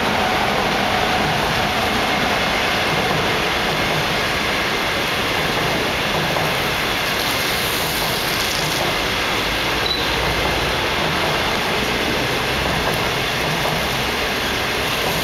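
Passenger train of 25G coaches hauled by an SS7E electric locomotive rolling steadily past as it pulls out of the station, a continuous even rumble and rail noise.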